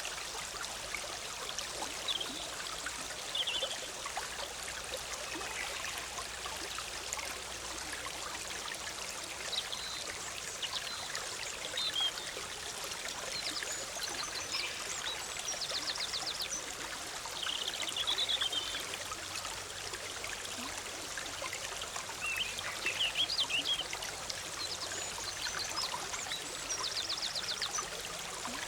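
Shallow forest stream bubbling steadily over rocks, with songbirds chirping here and there above it, including a couple of quick trills.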